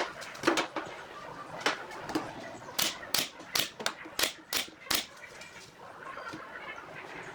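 Sharp knocks and taps in a woodworking workshop: a few scattered ones, then a run of five about every 0.4 s near the middle.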